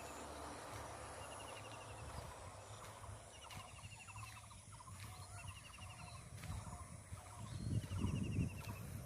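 Birds calling: a short rapid trill repeated every couple of seconds, with quieter chattering calls beneath it. A low rumble rises near the end.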